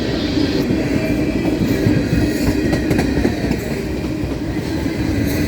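Indiana Harbor Belt freight train rolling past, a steady rumble of wagons with a few sharp wheel clicks over the rail joints.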